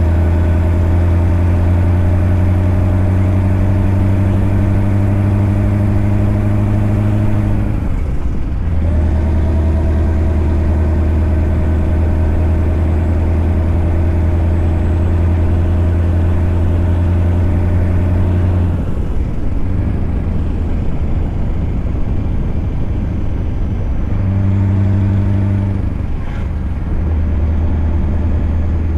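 Scania V8 truck engine running with a deep steady drone that creeps slowly up in pitch, breaks off briefly about 8 seconds in, then drops back near 19 seconds and swells again briefly around 24 seconds.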